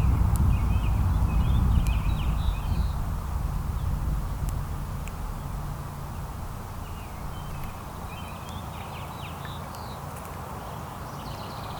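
Small songbirds chirping and twittering in short bursts, in three bunches, over a low rumble of wind on the microphone that fades away about halfway through.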